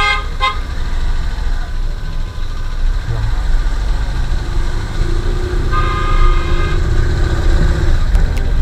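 Road traffic heard on the move, with a heavy low rumble throughout. A vehicle horn sounds briefly at the start and again for about a second past the middle.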